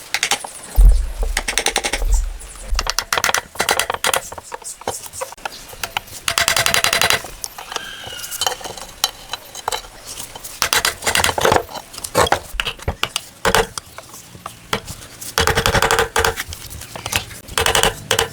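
Metal clinking and clattering of tools on engine parts, with two runs of rapid clicking like a ratchet wrench and a heavy thump about a second in.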